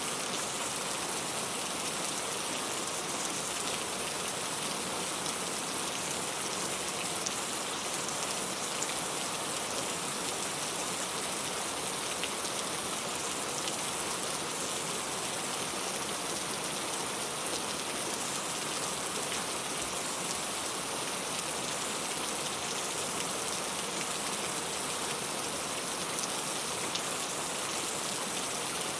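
Steady rain falling, an even hiss with many fine drop ticks and no let-up.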